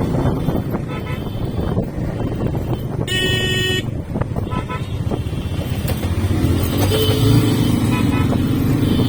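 Motorcycle engine and road noise while riding in traffic. A vehicle horn honks once about three seconds in, with a few shorter, fainter toots later on. The engine note rises in pitch near the end as it speeds up.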